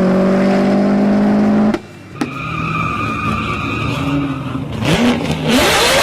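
Car engine revving hard through a loud aftermarket exhaust, its pitch climbing steadily, then cutting off abruptly under two seconds in. After a short lull, quieter engine sound with a steady high whine follows, and a loud rough blast of engine noise comes in near the end.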